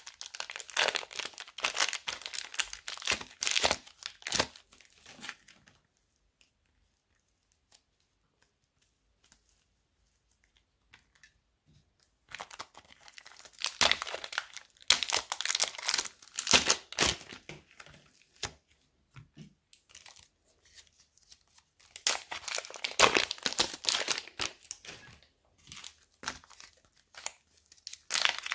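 Plastic bags of slime crinkling and crackling as they are handled and squeezed, in three spells of dense crackling with a pause of several seconds about a quarter of the way in.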